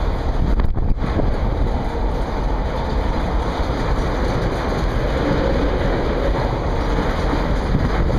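Tank cars of a freight oil train rolling past, their wheels giving a steady, continuous rumble on the rails.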